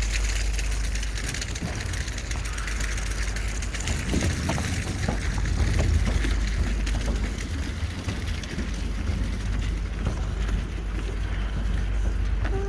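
Steady wind buffeting the microphone, with a low rumble and hiss from riding along.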